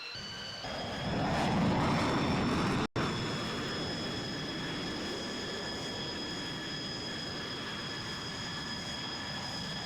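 Airplane engines running with a loud rush and a steady high whine; the whine steps up in pitch early on and the rush is loudest in the first few seconds. The sound cuts out abruptly for an instant about three seconds in, then carries on steadily.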